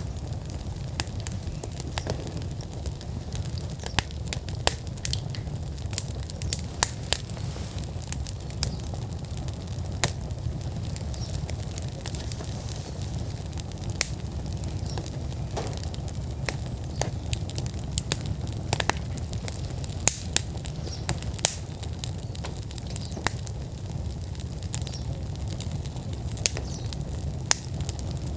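Wood fire burning in an outdoor fire pit, crackling steadily with frequent sharp, irregular pops over a low steady rumble.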